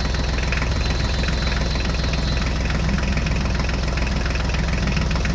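Tractor engine sound effect, idling steadily with a fast, even chug.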